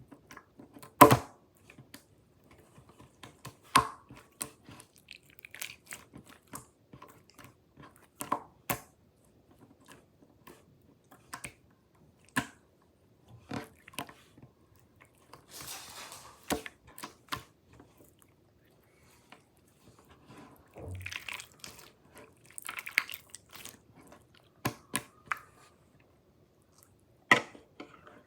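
Slime being played with by hand: irregular sharp pops and clicks with a few longer crackly stretches, the loudest pop about a second in.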